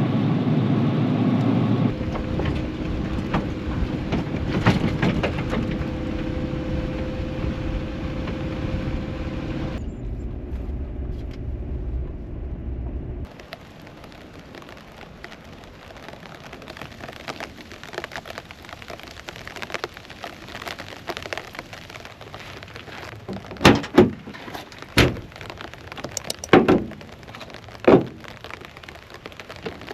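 Rain falling steadily, louder and over a steady hum in the first third. In the second half a few sharp, loud knocks stand out.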